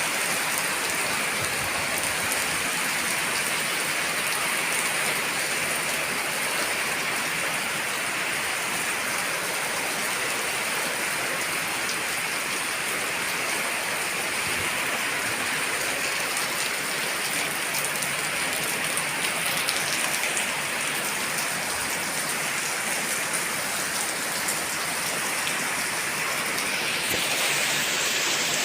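Heavy rain falling steadily, a dense hiss of drops pattering on surfaces, slightly louder near the end.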